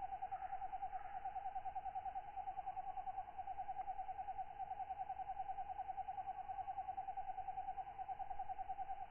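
A katydid calling in a steady, rapid pulsing trill at one pitch, about ten pulses a second and never pausing, over a faint wash of other night insects.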